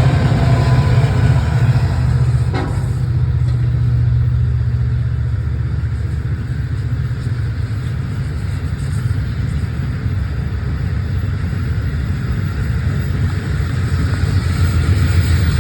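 A long train running past with a steady low rumble.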